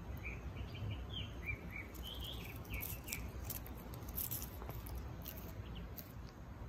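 Small birds chirping in quick, short notes that bend up and down for the first half, over a low steady rumble. Faint dry ticks and rustles close by follow in the second half.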